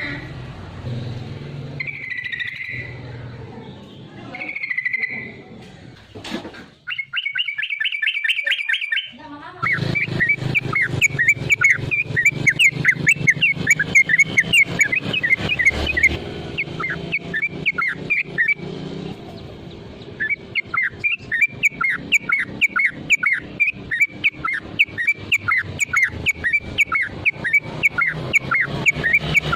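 Yellow-vented bulbul (trucukan) song: a few short calls, then a quick trill about seven seconds in. From about ten seconds comes a long fast run of sharp repeated chirps, several a second, with a brief pause partway through, over a low steady hum.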